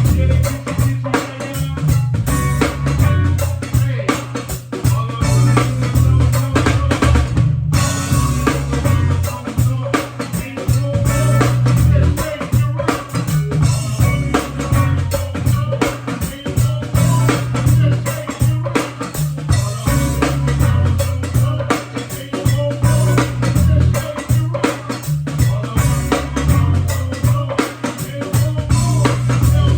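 Live band music: a drum kit playing a steady beat with kick, snare and rimshots over a strong bass line.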